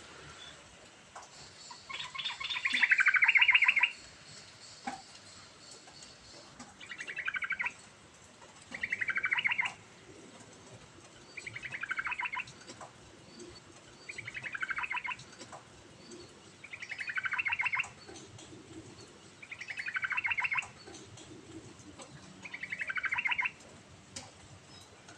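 Yellow-vented bulbul singing, about eight phrases repeated every two to three seconds. Each phrase is a quick, rapid run of notes that slides down in pitch, and the first is the longest and loudest.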